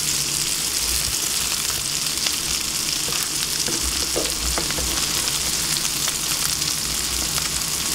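Vegetable fritters of grated pumpkin, zucchini and potato sizzling steadily as they fry in butter and a little oil in a frying pan.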